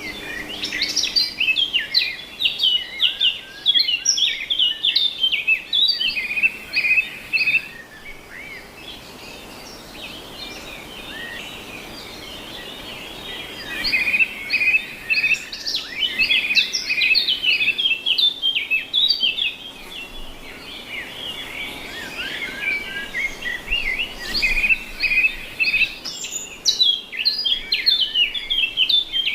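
Many caged birds chirping and chattering together in quick, overlapping calls, easing off into a quieter lull for several seconds about a third of the way through before picking up again.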